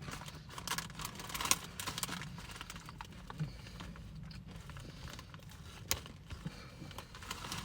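Thin, crunchy potato crisps being chewed: a run of irregular small crunches and crackles, with a few sharper ones.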